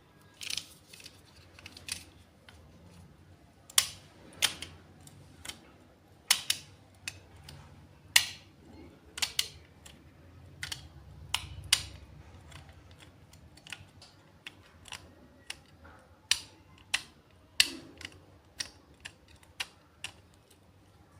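Irregular sharp clicks and taps of small hard parts being handled, one or two a second.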